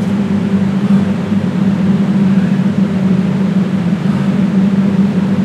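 Loud, steady mechanical hum with a low drone and an even hiss over it, unchanging throughout.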